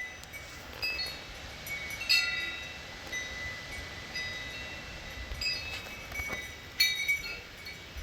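Metal wind chimes ringing irregularly, several tones struck in loose clusters and ringing briefly, with low gusts of wind rumbling on the microphone.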